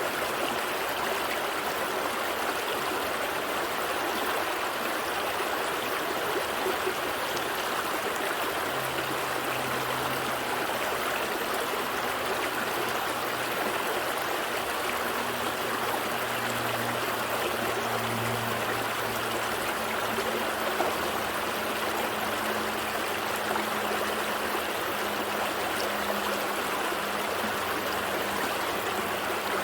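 A small stream flowing and trickling over rocks in a steady, even rush of water. A faint low hum runs underneath for most of the middle.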